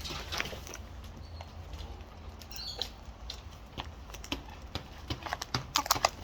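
Birds feeding on seed: beaks crunching seed and pecking at the container, heard as irregular sharp clicks that come thick and fast near the end. A short chirp sounds about two and a half seconds in.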